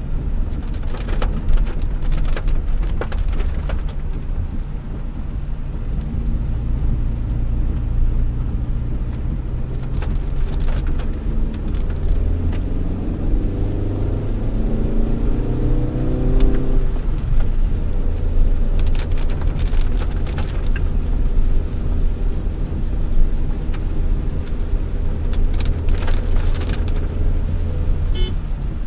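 Honda Elevate manual driving through heavy rain: a steady engine and road drone with rain hitting the car. About halfway through, the engine note rises as the car accelerates.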